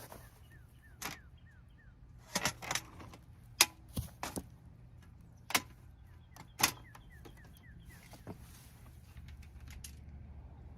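Blows landing on a plastic Holmes box fan: about eight sharp knocks and bangs at uneven intervals, the loudest a little under a second apart in the middle. A low steady hum runs underneath.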